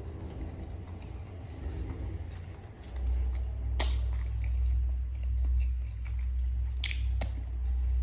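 Close-miked chewing of crispy fried chicken, with a few sharp crunches. A steady low hum comes in about three seconds in and stays.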